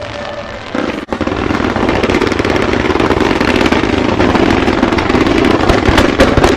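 Fireworks going off in a dense, rapid string of bangs and crackles that starts after a brief gap about a second in and grows louder, with a few heavier bangs near the end.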